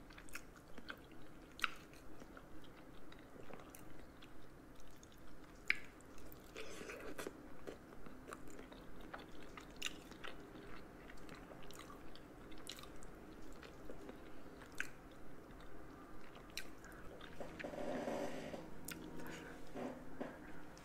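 A person chewing food close to the microphone, wet mouth sounds in an even rhythm of about two chews a second, with a few sharp clicks.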